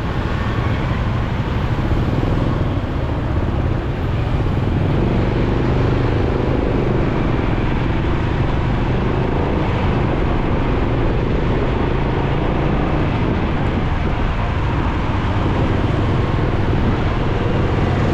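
Motorcycle on the move in traffic: its engine running steadily under a constant rush of wind on the microphone.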